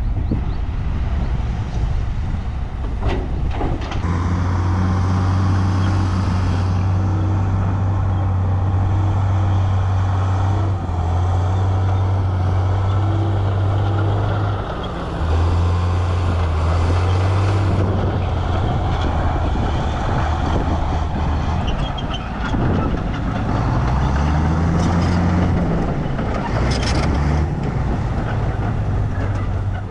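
Heavy diesel engines of earthmoving machinery running under load, the deep engine note shifting pitch several times and rising then falling again about three-quarters of the way through. A short hiss of air near the end.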